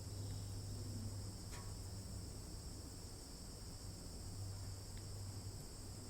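Steady, continuous high-pitched chorus of insects trilling, with a low steady hum underneath.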